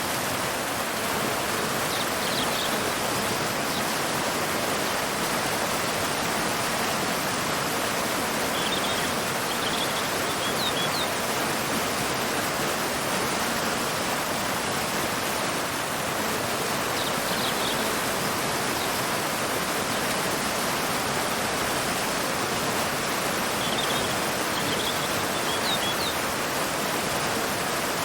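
Waterfall pouring into a river, a steady, even rush of water. Faint bird chirps come through a few times, in short high clusters.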